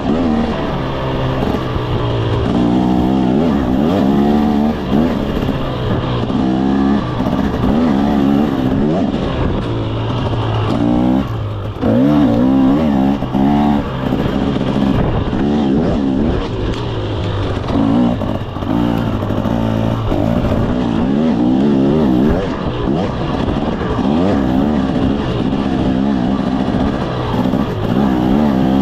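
KTM 300 SX two-stroke dirt bike engine being ridden hard, its pitch climbing and dropping again and again as the throttle is worked, with a few short quick blips partway through.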